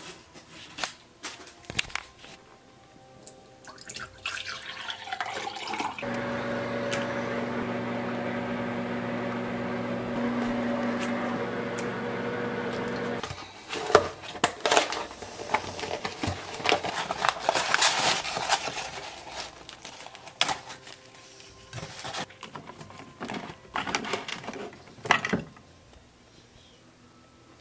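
Sounds of making tea. First come scattered clicks and clatter. Then a steady electrical hum, fitting a microwave oven heating a cup, runs for about seven seconds and cuts off suddenly. After it come clinks and a rushing, liquid noise for several seconds, then a few lighter clicks.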